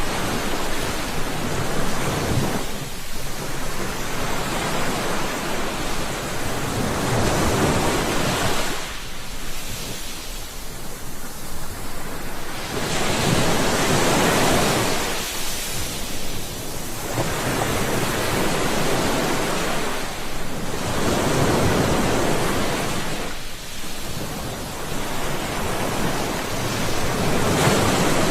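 Sea waves surging and washing back, the rush of water swelling and fading every few seconds.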